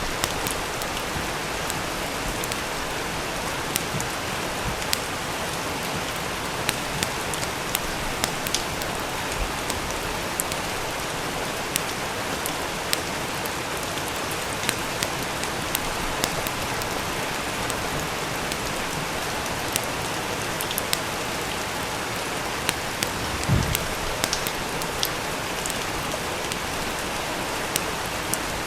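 Steady rain with scattered sharp crackles and pops at irregular intervals, and a brief low thump about 23 seconds in.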